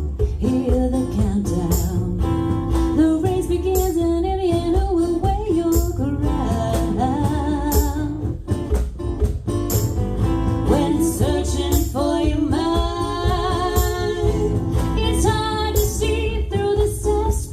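A woman singing a song with guitar accompaniment, performed live.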